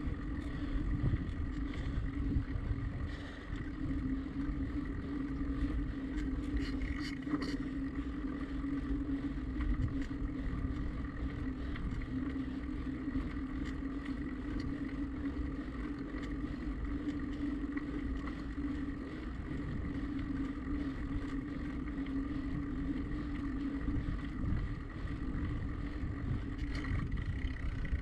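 Bicycle riding on a road: low rumble of wind on the microphone and tyres rolling, with a steady hum throughout and a few faint clicks.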